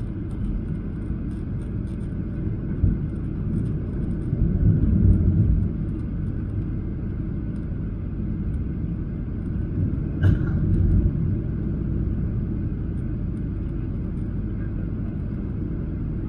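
Steady low rumble of cabin noise inside a Boeing 737-800 airliner, swelling for a moment about four seconds in, with a single sharp knock about ten seconds in.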